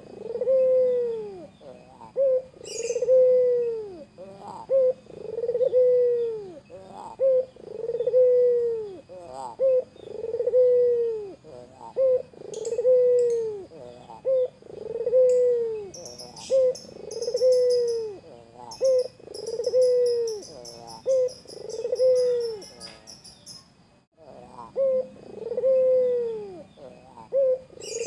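White Barbary (ringneck) dove cooing over and over: each call a short note followed by a long, arching, falling coo, repeated about every two and a half seconds with a brief pause near the end. Faint high twittering of small birds in the background midway.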